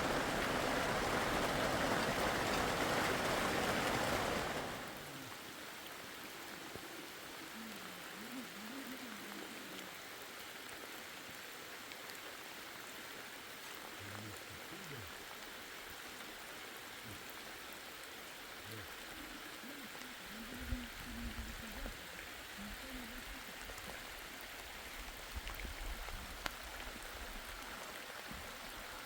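Steady rain falling, heavy for the first four seconds or so, then suddenly much softer and continuing as a lighter patter.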